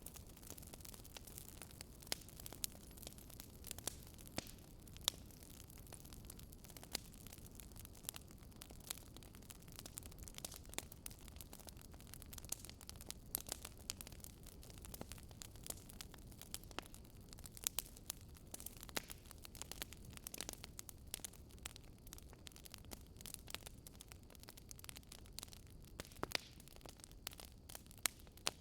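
Wood fire crackling in a fireplace: irregular sharp pops and snaps, a few standing out louder, over a low steady hiss.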